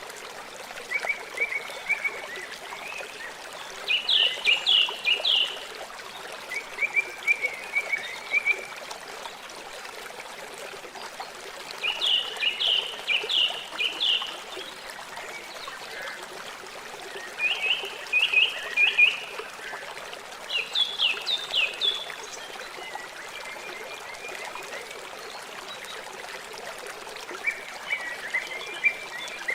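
River water flowing steadily. About eight times, a short run of rapid high chirps from a frog or bird sounds over it, each run lasting a second or two.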